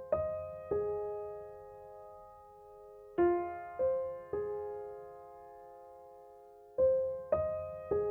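Slow, sparse piano background music: groups of three notes struck one after another, each left to ring out and fade, with a new group coming about every three and a half seconds.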